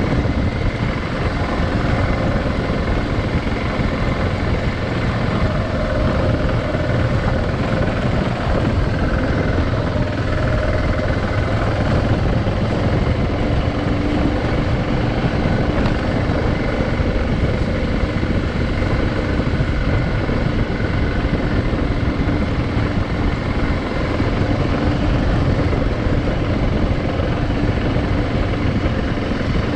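Adventure motorcycle riding along at a steady speed: a continuous engine drone under a dense rush of wind and road noise.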